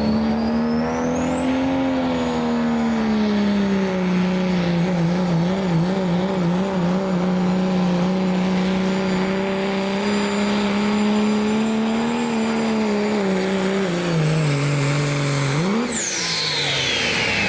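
Work stock diesel pickup truck pulling a sled at full throttle: the engine runs hard with a high turbocharger whistle that climbs as the turbo spools up. The engine pitch wavers about a third of the way in and sags near the end, then a brief rev blip a little past halfway through the last quarter, and the engine cuts off as the turbo whistle winds down in a falling sweep.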